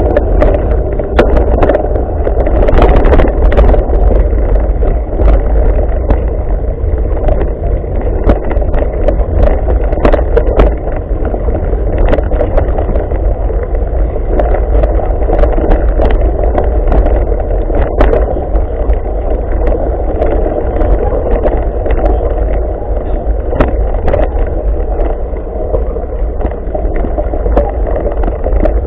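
Mountain bike being ridden over a rough trail, heard on a bike- or rider-mounted camera: steady wind buffeting and rumble on the microphone, with frequent knocks and rattles from bumps in the ground.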